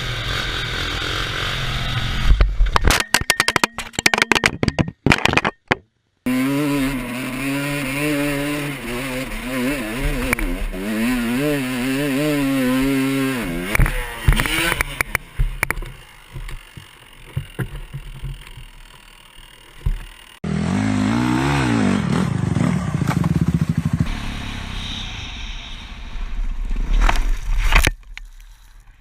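Dirt bike engines revving and running, the pitch rising and falling with the throttle, across several abruptly cut clips. A few seconds in comes a burst of loud knocks and clattering.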